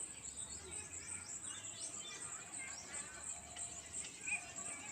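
Many small birds chirping and twittering in quick, overlapping, downward-sweeping notes over a steady high insect drone, with one louder chirp about four seconds in.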